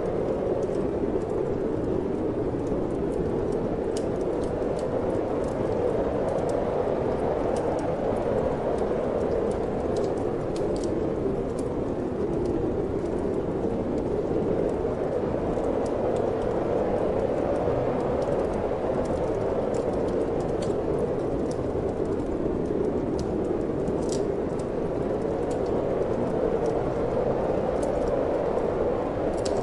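Steady wind blowing, with sparse, irregular crackles and pops of a wood fire burning in a fireplace.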